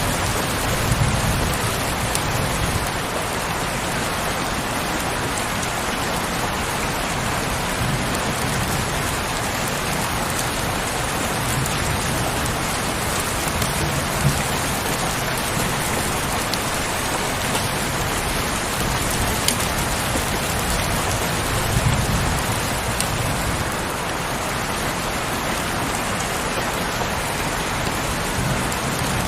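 Steady heavy rain, an even hiss of falling drops, with a few brief low rumbling swells underneath.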